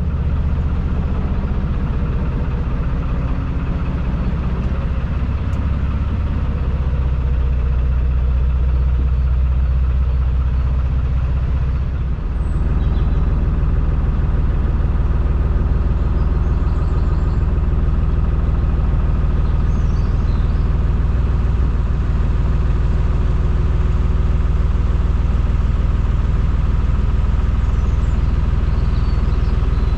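Narrowboat engine running steadily, its note changing and getting a little louder about twelve seconds in.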